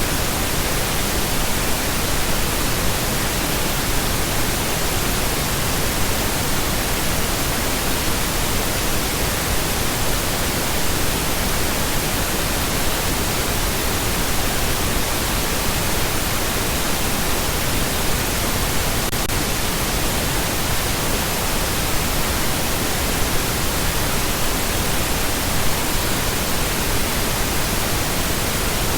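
Steady pink noise: a constant, even hiss spread across the whole range, with no changes or events.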